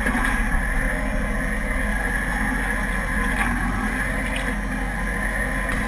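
Suzuki sport motorcycle's engine running steadily at low revs, the pitch holding level.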